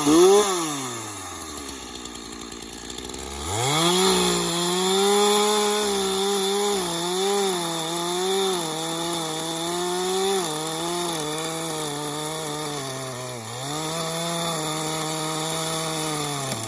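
Stihl MS231 two-stroke chainsaw blipped and dropping back to idle, then opened up about three seconds in and held at high revs for over ten seconds, its pitch wavering and dipping as it cuts into wood. The sound cuts off suddenly at the end.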